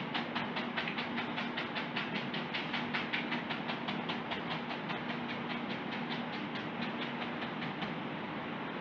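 Paintbrush dabbing paint onto a canvas in quick, even taps, about six a second, fading out near the end. A steady low hum runs underneath.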